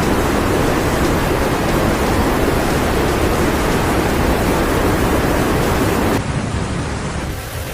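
Loud, steady rushing of water, as from flooding, that cuts off abruptly about six seconds in and gives way to a quieter hiss.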